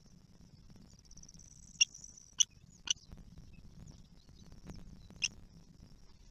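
Kestrel chicks giving short, sharp squeaky calls: four in a few seconds, with a brief rapid chitter just before the first.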